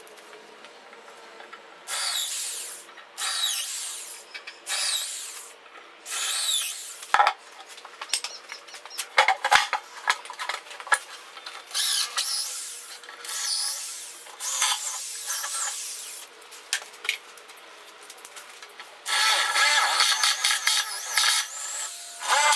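A tool working wood in a series of separate strokes of about a second each, with short pauses between them, running on longer and without a break near the end.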